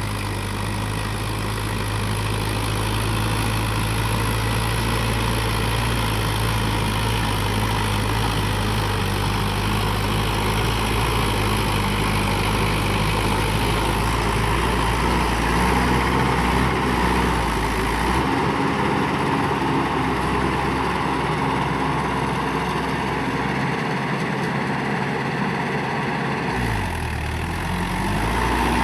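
Mahindra 585 tractor's diesel engine running steadily. About two-thirds of the way through its note changes for several seconds, then dips briefly and settles back near the end.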